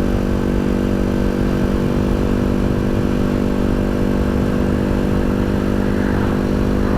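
Janus Halcyon 250 motorcycle's single-cylinder engine running at a steady cruising speed, its pitch holding level throughout.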